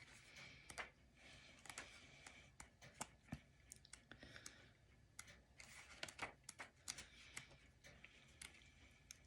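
Near silence broken by faint, scattered clicks and light rustles of paper being handled.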